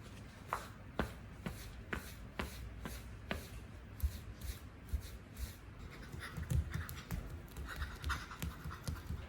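Footsteps on an apartment floor: light, evenly spaced taps about two a second, with scuffing and a few heavier low thuds in the last few seconds.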